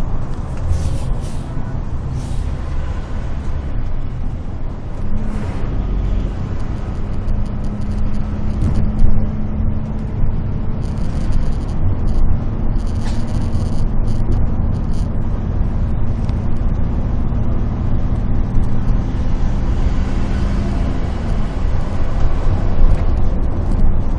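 Large bus engine running amid road traffic, with a steady low engine drone from about five seconds in until near the end, and a few short hisses.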